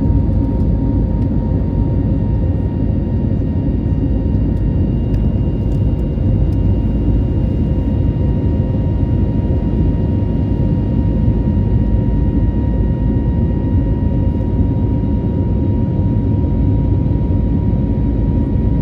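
Airliner in flight: a steady, loud rumble of engines and airflow with a constant thin whine above it.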